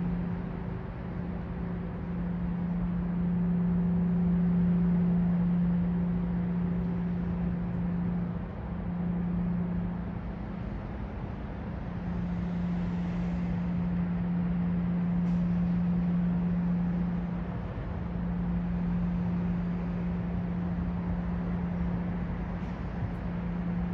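Urban night ambience: a steady low-pitched hum over a constant wash of traffic noise, swelling and easing slightly.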